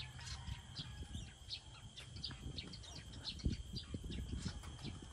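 Many short bird chirps repeating throughout, over a steady high insect-like tone and a low rumble with a few dull thumps, the loudest about three and a half seconds in.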